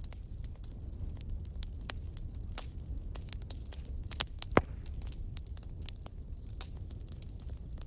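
Wood fire crackling: irregular small pops and snaps over a steady low rumble, with one sharp, much louder pop about four and a half seconds in.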